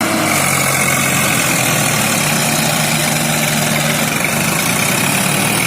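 Tractor diesel engine running steadily at a loud, even level.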